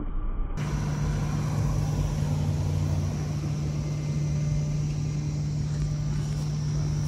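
A steady mechanical hum with one constant low tone over a haze of noise, like a vehicle running; it starts abruptly about half a second in.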